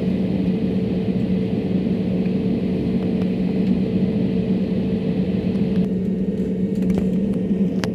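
Airliner cabin noise in flight: a steady engine drone with constant low hum tones under a rushing hiss. The upper part of the hiss drops off about six seconds in, and a few faint clicks come near the end.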